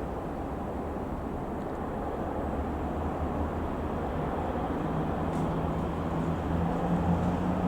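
Engine of an Ikarus C-42 microlight, a Rotax 912 flat-four, running with a steady hum under a noisy rush, growing slowly louder, with a steadier low tone coming in about halfway through.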